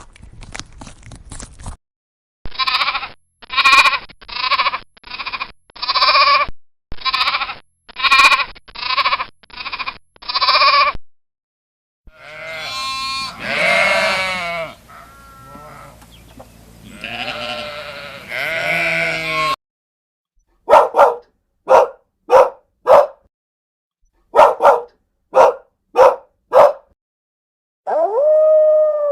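A string of separate animal calls: a row of about ten short, evenly spaced calls, then long wavering bleats, then short sharp dog barks in quick groups. A long held call starts near the end.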